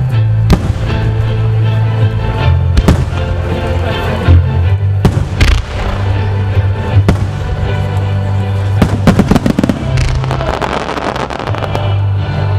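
Starmine firework display: repeated sharp bursts over music with held low bass notes, and a stretch of dense crackling near the end.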